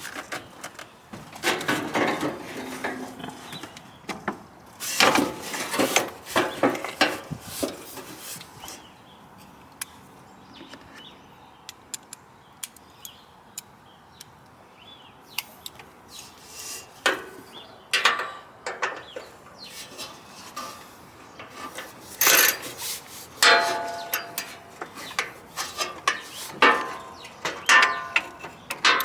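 Intermittent clinks and clatters of hand tools and metal parts being handled while a riding mower is taken apart, with a quieter stretch in the middle.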